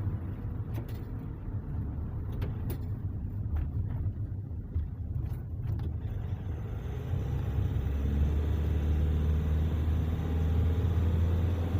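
Car running with a low, even rumble of engine and road noise, a few faint clicks over it in the first half; about seven seconds in it settles into a steadier, louder low drone. The differential has new side gears, pinion gear and bearings and no longer hums.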